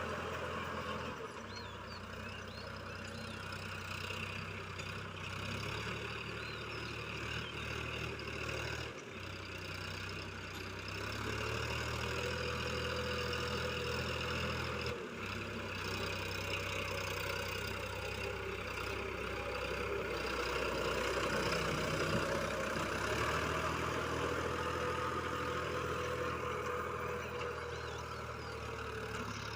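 Sonalika DI-50 Rx tractor's diesel engine running steadily, with two brief breaks about nine and fifteen seconds in.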